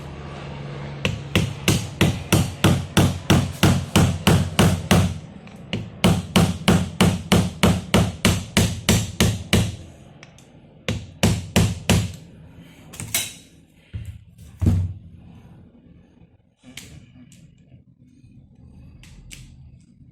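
Hammer blows struck in a fast, even rhythm of about three a second, in two long runs, followed by a few scattered single blows and fainter knocks.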